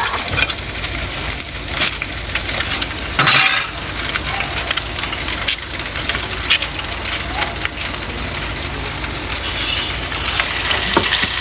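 Fish deep-frying in hot oil, a steady sizzle with scattered crackles and a louder burst of spattering about three seconds in.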